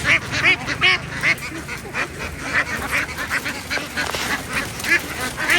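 A large flock of ducks quacking, many short calls overlapping several to a second.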